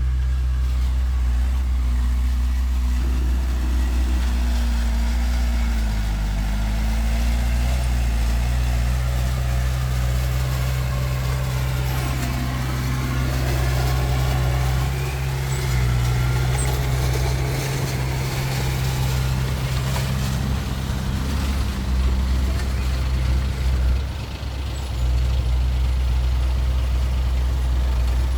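Diesel engines of earthmoving machinery, a bulldozer and dump trucks, running steadily under work, with the engine pitch shifting up and down a few times.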